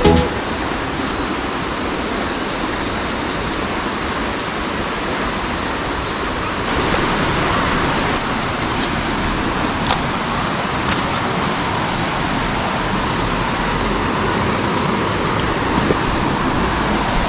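Steady rushing water noise, with a few faint sharp taps partway through.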